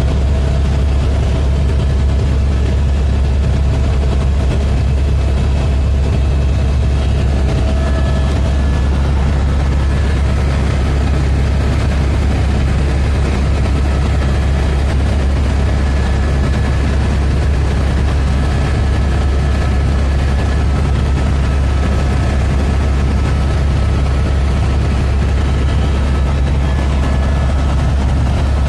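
Tour helicopter in flight: the engine and rotor make a loud, steady low drone that does not change.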